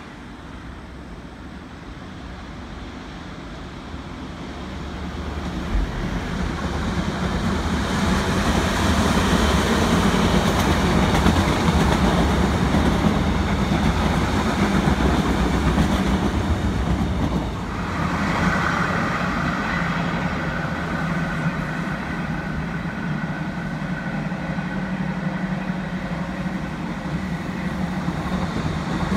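Korail Line 1 electric commuter train passing on the mainline, its wheels rumbling along the track. It grows louder from about four seconds in and is loudest for the next several seconds. From about eighteen seconds a steady high whine joins the rumble.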